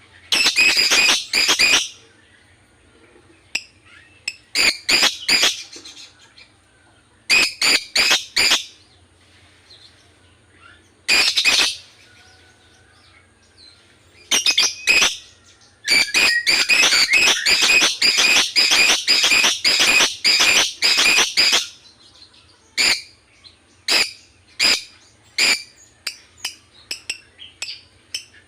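Lovebird chattering in bursts of rapid, sharp, high chirps. There is a long unbroken run of about five seconds in the middle, and after it come single chirps spaced about half a second apart.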